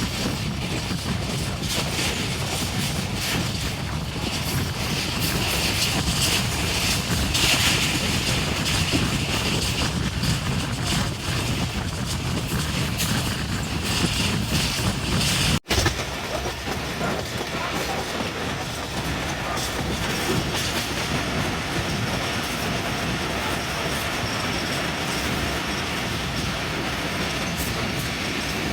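A train running on the rails, with steady rumbling and the clickety-clack of wheels over the track. The sound drops out for an instant a little past halfway, then carries on.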